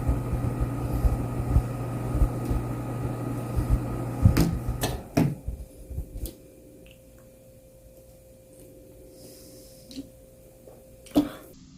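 A steady mechanical hum with low bumps and knocks that cuts off about five seconds in after a few sharp knocks, leaving a quiet room with an occasional click and one louder knock near the end.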